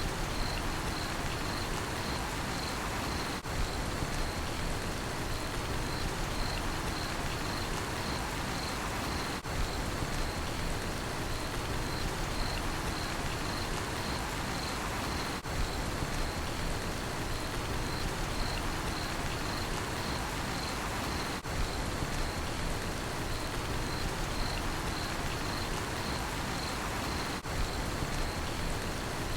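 Steady rain falling, with a cricket chirping in an even, rapid pulse over it. The level dips briefly about every six seconds.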